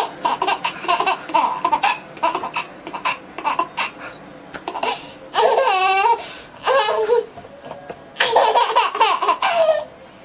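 A baby laughing: a run of quick laugh pulses, then a few longer, higher laughs with short breaks between them.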